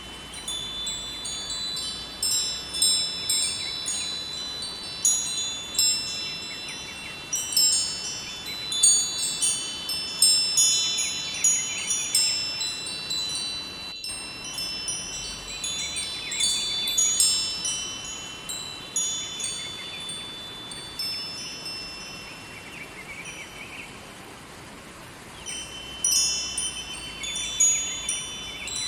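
Wind chimes ringing at random, many overlapping high, clear tones struck irregularly and left to ring out, thinning briefly about two-thirds through. Under them runs a faint steady rush of flowing river water.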